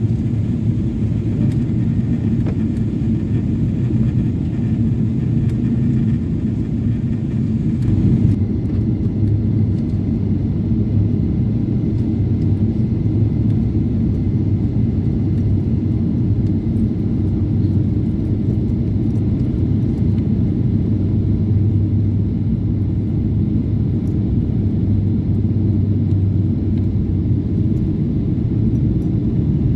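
Steady low rumble of a Boeing 777-300 airliner's engines and airflow, heard inside the cabin. About eight seconds in, the hiss above the rumble turns duller.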